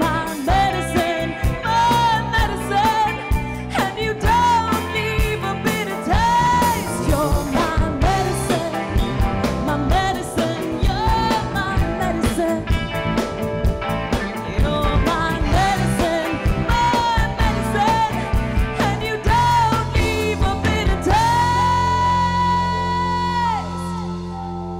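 Live rock band playing with wordless singing over drums, the melody bending and running, then ending on a long held note before the music starts to die down.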